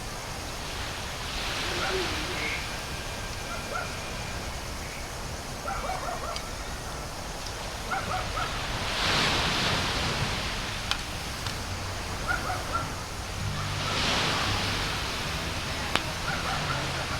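Sea waves breaking on the beach, a steady wash of surf that swells three times as waves come in.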